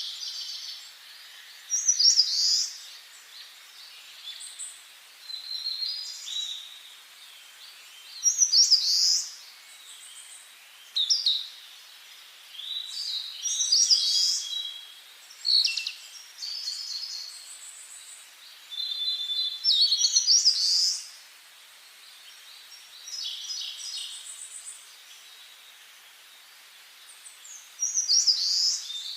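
Songbirds singing: short, bright song phrases repeated every few seconds, with a faint steady hiss between them.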